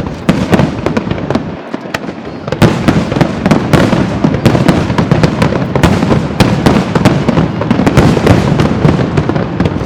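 Aerial fireworks going off in a dense barrage of bangs, one close on another. There is a short lull about two seconds in, then the bangs come thick and fast again.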